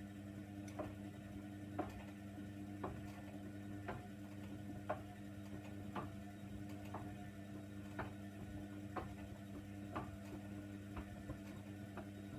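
A Hoover Nextra washer dryer tumbling its load in the main wash: a steady motor hum with sharp ticking knocks about once or twice a second as the load, a jacket with a lighter in its pocket, falls in the drum.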